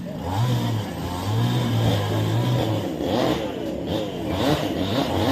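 A motor vehicle engine running, its pitch rising and falling.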